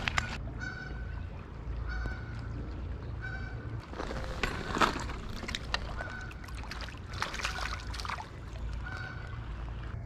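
A bird calling over and over, short calls at a steady pitch every one to three seconds, over a steady low rumble, with two stretches of noise near the middle.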